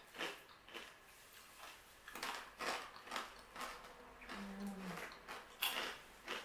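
Crunchy barbecue corn snacks being chewed: a few scattered crunches and crackles, with a short hummed "mm" about four and a half seconds in.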